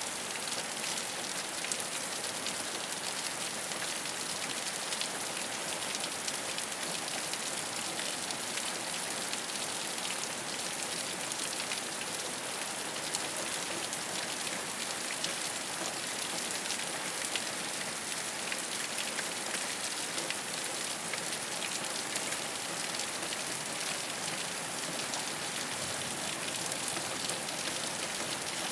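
Steady rain falling on a rooftop: an even hiss of rainfall with many small drop ticks scattered through it.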